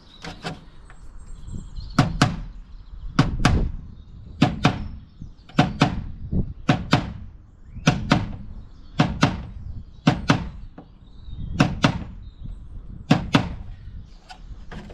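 Hammer tapping a ring-shank nail into cement board, two quick blows at a time with a pair about every second and a quarter. It is punching a row of holes along a marked line so the board can be snapped.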